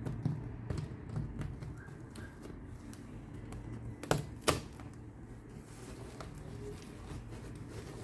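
Scattered light clicks and taps of small objects being handled, with two sharper clicks close together about four seconds in, over a low steady rumble.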